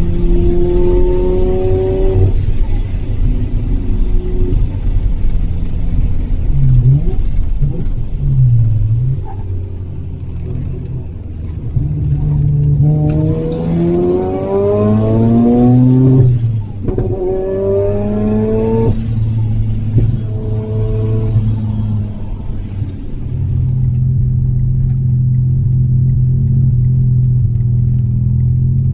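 Mazda RX-7 FD3S's turbocharged twin-rotor 13B rotary engine pulling hard on track. The pitch climbs through the revs twice, with a high whistle rising alongside and a brief break between the two climbs, then settles into a steady lower note near the end.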